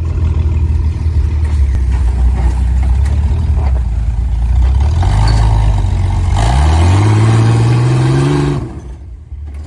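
Off-road 4x4's engine working at low revs, then revving up steeply about six seconds in and holding high before dropping back near the end.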